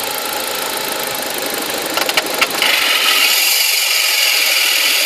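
BMW 1 Series engine running under the open hood with a rattling noise, the loud, intermittent 'cracking' noise the owner cannot place. A few sharp clicks come about two seconds in, then the sound turns to a steadier hiss with the low end gone.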